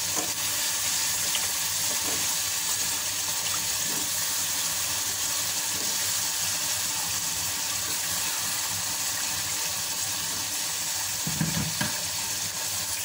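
Freshly added wet potato cubes frying in hot ghee in a pressure-cooker pot: a steady sizzle, with a few faint knocks of the steel ladle against the pan.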